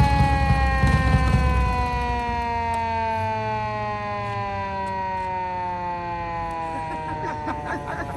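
Police siren on a 1946 Harley-Davidson EL Knucklehead motorcycle winding down, its steady wail falling slowly in pitch, over the low rumble of the bike's running engine.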